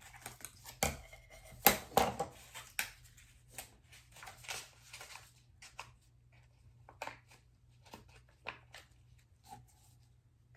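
Scissors snipping open a powder packet from a hair-dye kit, with clicks and crinkling as the packet and bottle are handled; a sharp click a little under two seconds in is the loudest sound.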